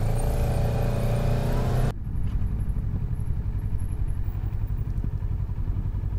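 Motorcycle engine pulling away, its note rising. About two seconds in the sound cuts suddenly to a steady, lower engine rumble as the bike rolls along slowly.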